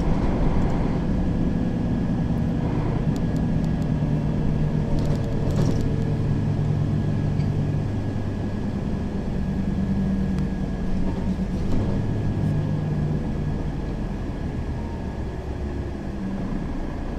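Mercedes-Benz Citaro facelift city bus running, its engine note rising and falling in pitch as it drives, with a faint steady whine and a few light clicks. It grows slightly quieter near the end.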